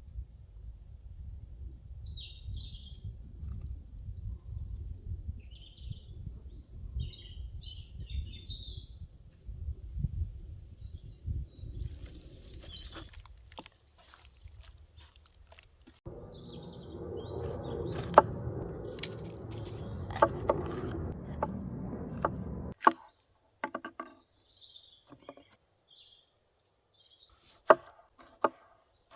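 Small birds chirping over a low outdoor rumble, then a stretch of dense rustling noise with knocks, and near the end a few sharp separate knocks of chopping on a wooden board while birds chirp again.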